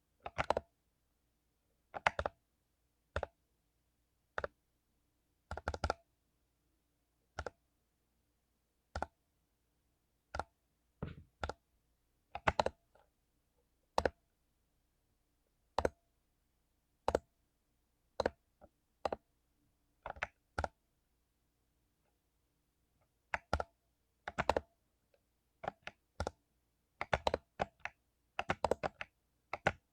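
Mechanical keyboard with lubed Cherry MX Silver linear switches being typed on slowly: single keystrokes and quick clusters of two to four, about a second or so apart, with a pause of about two seconds past the middle.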